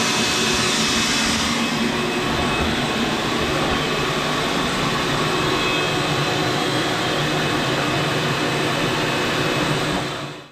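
Vacuum cleaner running steadily, sucking dirt and soot out of the bottom of a propane water heater's burner area. The high hiss eases about a second and a half in, and the sound cuts off suddenly at the end.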